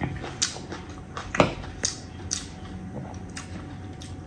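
A person chewing a mouthful of rice and beef: about seven wet mouth smacks and clicks over four seconds, the loudest about a second and a half in.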